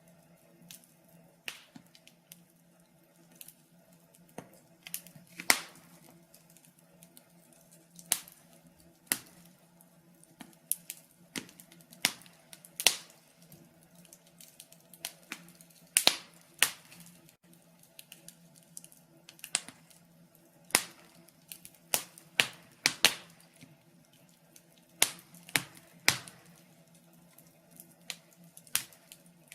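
Wood fire burning in a fireplace, crackling with irregular sharp pops and snaps, some much louder than others.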